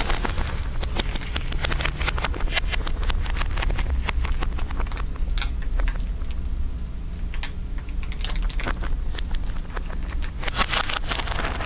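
Layered ASMR crinkling: a dense, irregular run of crackles over a steady low rumble, a little sparser about halfway through.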